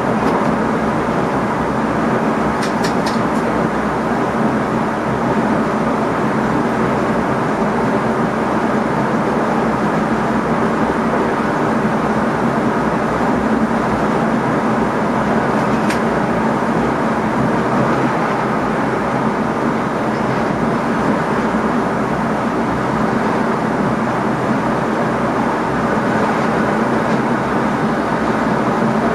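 Steady running noise inside the driver's cab of an NS ICM electric multiple unit on the move: wheels on rail and a steady hum. A few faint ticks come about three seconds in and again midway.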